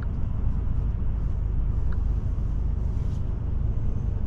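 Steady road noise and low engine rumble heard while riding in a Forest River Forester motorhome at road speed.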